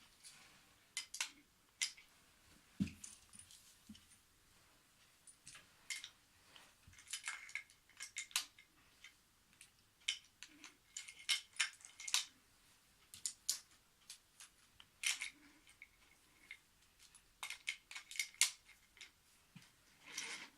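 Irregular light clicks and clacks of IKEA wooden toy train track pieces being handled and knocked together, with a duller knock about three seconds in.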